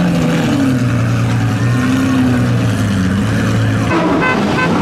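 Lamborghini Aventador and Huracán engines idling, their pitch rising and falling gently with small throttle changes. A short run of high-pitched tones sounds near the end.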